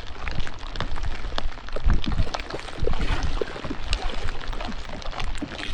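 Rain hitting a kayak and the water around it: many small, irregular drop impacts, with wind rumbling on the microphone.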